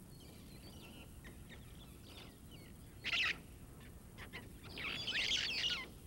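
A flock of birds calling: scattered thin chirps and whistles, a loud harsh call about three seconds in, then a burst of loud overlapping chattering calls near the end.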